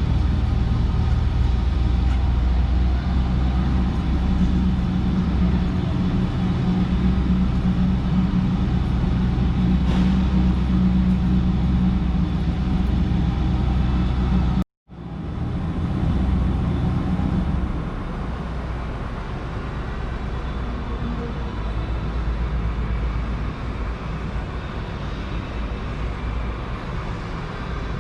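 A motor vehicle's engine running steadily with a low rumble, broken by a brief dropout about fifteen seconds in, after which it continues a little quieter.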